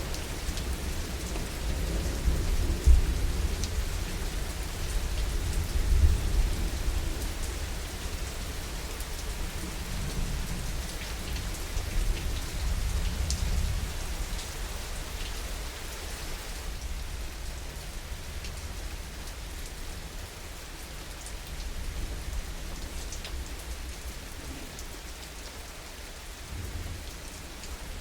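Heavy rain falling steadily, with individual drops heard as sharp ticks, over a low rumble of distant thunder that swells a few times in the first half and fades away after about the middle.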